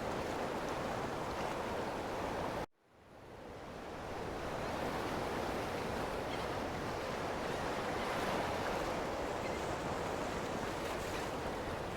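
Ocean surf washing steadily. About three seconds in it cuts out abruptly, then fades back up over a second or so.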